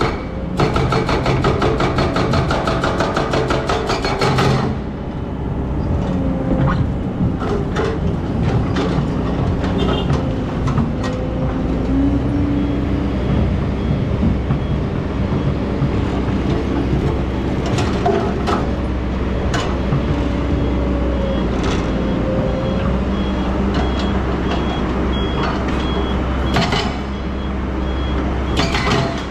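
Excavator working: its diesel engine runs steadily, with a fast rattling for the first four seconds or so, then scattered metal clanks and short creaking squeals. A faint, evenly repeating beep of a warning alarm comes in from about halfway.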